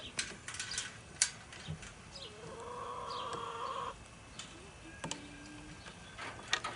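Chicken calling: one drawn-out call of nearly two seconds in the middle, then a shorter, lower call about five seconds in, with a few light knocks around it.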